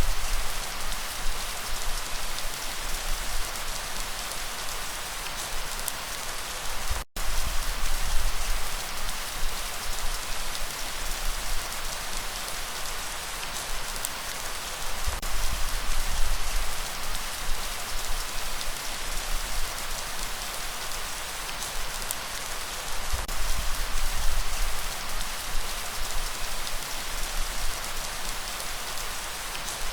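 Steady rain falling and pattering on surfaces, with the sound cutting out for a split second about seven seconds in.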